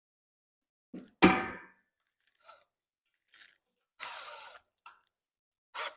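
Tools and hardware being handled at a woodworking job: a dull thud, then a sharp knock that rings for about half a second, followed by faint small clicks and two short scraping bursts.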